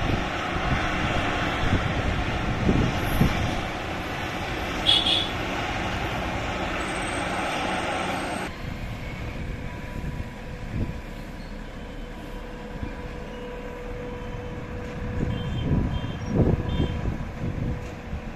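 Freight train passing on a nearby track. A steady rushing rumble stops abruptly about eight seconds in, and after it comes a quieter steady hum under the wheel rumble, with a few low knocks near the end.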